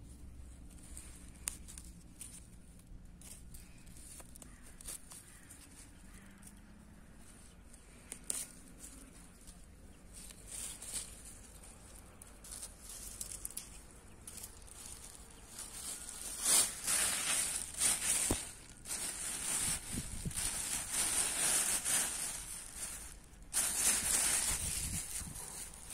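Rustling and crackling of low wild greens and dry vegetation being handled and picked by hand, with scattered small clicks. The rustling grows louder about two-thirds of the way through.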